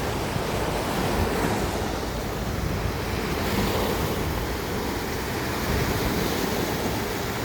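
Sea waves washing onto the beach in a steady surf, with wind blowing across the microphone.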